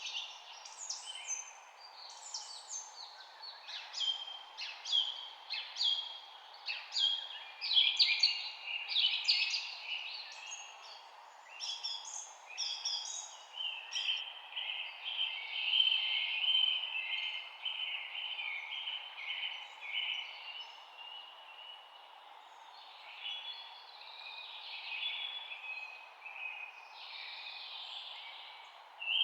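Several songbirds chirping and singing over one another in quick, overlapping short calls, with a longer, steady trill in the middle stretch. A steady, even background noise runs underneath.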